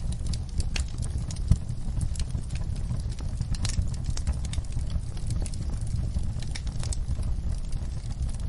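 Wood fire crackling: many irregular sharp snaps and pops over a steady low rumble of burning.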